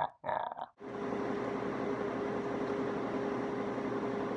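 Steady running noise inside a single-car diesel railcar: an even rumble with a steady hum under it.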